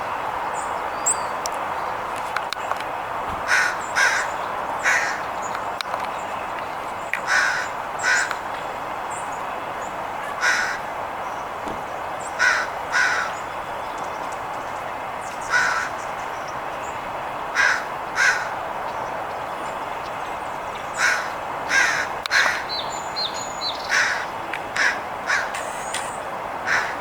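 Crow cawing again and again, the caws often in quick pairs or threes, over a steady background rush. The calls are protest at a red-tailed hawk perched nearby: the crow is scolding it to drive it off.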